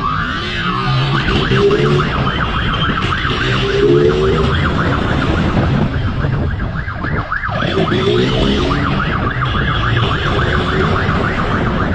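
Police siren on fast yelp, sweeping rapidly up and down without a break, over steady vehicle engine and road noise.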